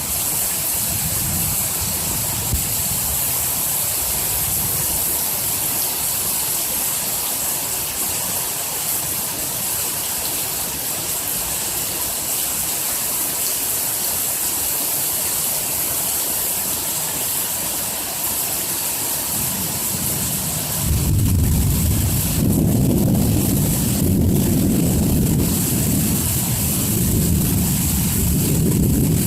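Heavy rain falling as a steady hiss. About twenty seconds in, a long low rumble of thunder sets in and keeps rolling, louder than the rain.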